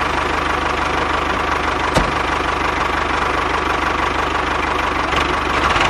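Tractor engine running steadily with a fast, even chugging beat, with one sharp click about two seconds in.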